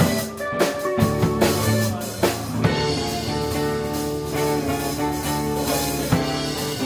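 Live band playing an instrumental passage of a rock song without vocals: drum kit and electric guitar. Sharp drum hits in the first few seconds, then mostly held chords.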